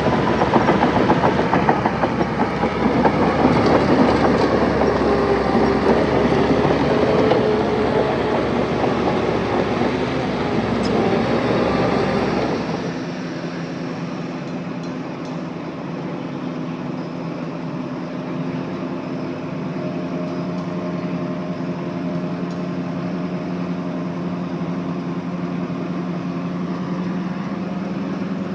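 Heavy diesel earthmoving machinery at work, with a rapid clatter over the engine noise. About halfway through it drops suddenly to a quieter, steady engine drone.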